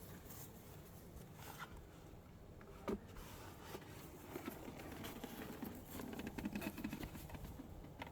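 Faint scattered taps, scrapes and rustles with one sharper knock about three seconds in: beehive covers being handled and set back in place.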